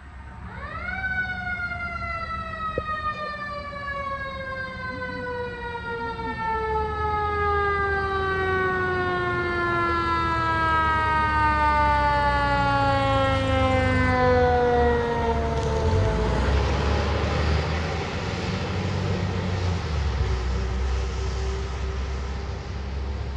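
Fire engine siren (a 2024 Spartan MetroStar/Marion pumper) winding up quickly about half a second in, then sliding slowly down in pitch and fading out over about fifteen seconds. The truck's engine and road noise run underneath and turn into a loud rushing sound as it passes in the last several seconds.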